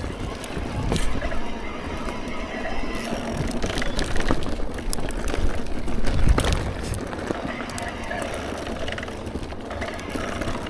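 Mountain bike being ridden over wet rocks and roots: the bike rattling, with sharp knocks as it hits rocks and roots, over a low rumble of wind on the microphone.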